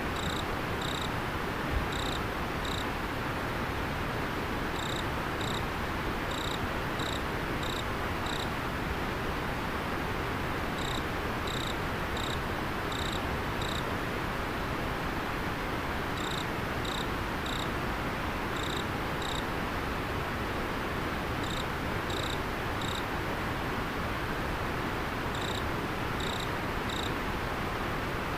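River water flowing steadily, with an insect chirping high-pitched in short runs of a few chirps, repeated every few seconds.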